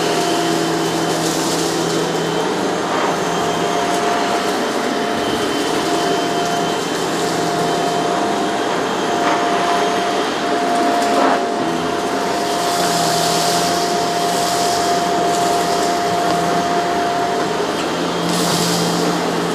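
Shark CZ351 pet canister vacuum running steadily while being worked over a rug, its motor hum constant with a brighter hiss that swells now and then.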